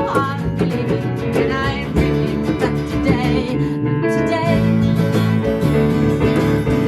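Band playing an instrumental passage of a song, with strummed and plucked acoustic guitar.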